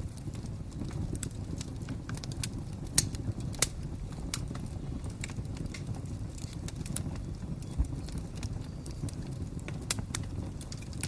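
Wood fire crackling: irregular sharp snaps and pops, a few of them louder, over a low steady rumble of the flames.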